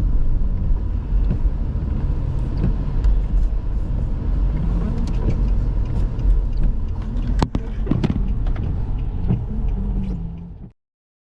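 Car driving on a snowy road, heard from inside the cabin: steady low rumble of engine and tyres, with scattered light clicks and one sharper click about seven seconds in. The sound cuts off abruptly near the end.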